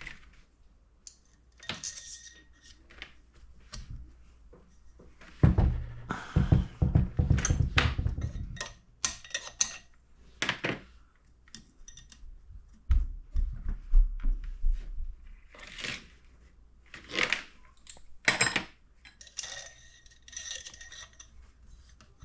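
Metal hand tools and engine parts clinking and knocking during engine assembly: a string of separate sharp clinks, with a busier run of rattling knocks about a third of the way in.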